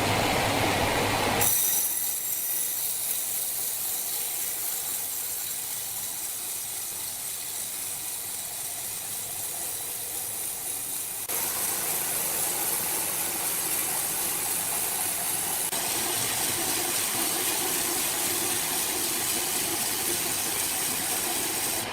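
Sawmill machinery running: a steady mechanical noise with a strong hiss, shifting abruptly about a second and a half in and again around eleven seconds.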